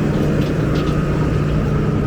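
Steady drone of a running vehicle's engine and road noise, with a few faint, short, high squeaks.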